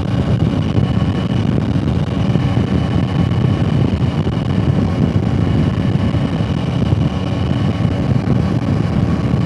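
2022 Yamaha Tracer 9 GT's three-cylinder engine running steadily at riding speed, mixed with heavy wind rush over the microphone.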